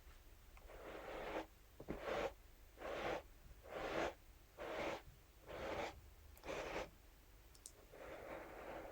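Scalp massage brush swept across a surface in soft, even brushing strokes, about eight in a row, roughly one a second.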